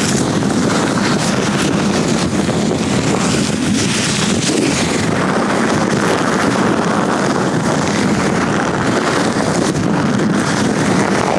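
Latex-gloved hands rubbing and gripping right at the microphone, making a steady, dense rubbery rustle and crackle.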